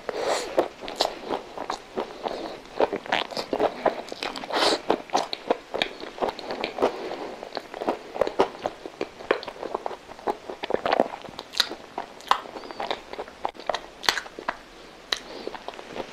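A person chewing a bite of soft coconut-coated custard milk roll close to a microphone, with many short, sharp mouth clicks coming irregularly.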